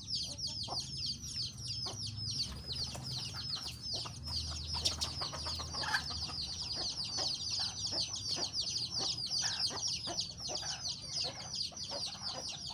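A flock of chicks peeping continuously, a dense chorus of short falling chirps many times a second, with scattered sharp knocks among them.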